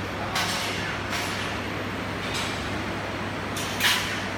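Electric arc welding: short hissing, crackling bursts from the arc, several in a row with the loudest near the end, over a steady low hum.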